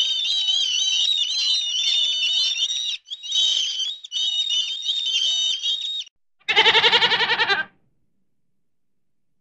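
A flock of birds calling over one another in a dense, high chatter that breaks off briefly twice and stops about six seconds in. Then a goat gives one loud, quavering bleat about a second long.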